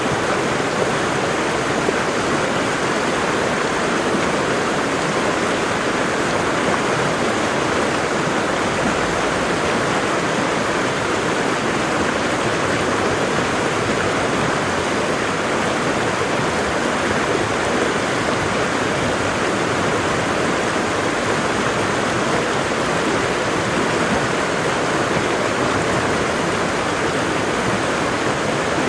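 Waterfall: water falling and splashing in a steady, unbroken rush with no change in level.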